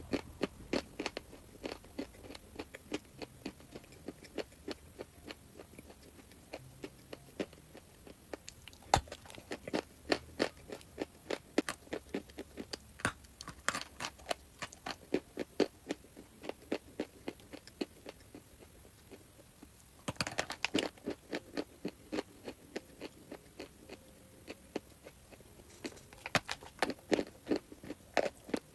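Chalk being chewed close to the microphone: a long run of sharp, dry crunches as pieces are bitten and ground between the teeth, easing off for a few seconds past the middle before dense crunching starts again.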